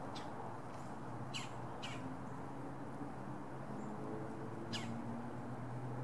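Short, sharp bird calls, each sweeping quickly down in pitch, a pair close together about a second and a half in and another near the end, over a steady low hum.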